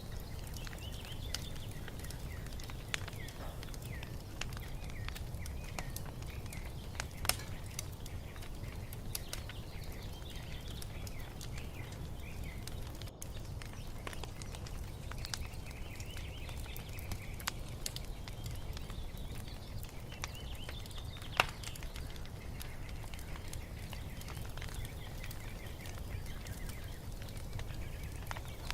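Wood fire crackling and popping over a low steady rumble, with two sharper pops, one about a quarter of the way in and one about three-quarters through. Songbirds chirp faintly in the background.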